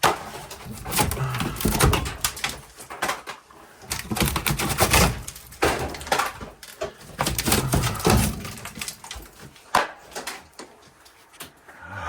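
Irregular knocks and clatter of sheet metal and hardware being pried at and handled during demolition.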